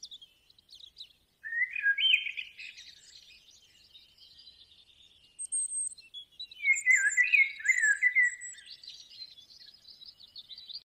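Songbirds singing, with two louder warbling phrases about a second and a half in and again around seven seconds, over fainter high trills and chirps.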